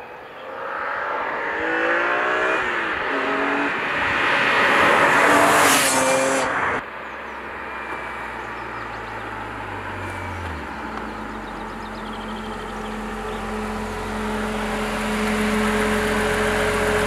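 BMW E46 M3's straight-six engine accelerating hard, its revs climbing through several gear changes and growing loud as it comes close, then cut off abruptly about seven seconds in. After that the engine runs at low revs, drops about ten seconds in and settles into a steady idle.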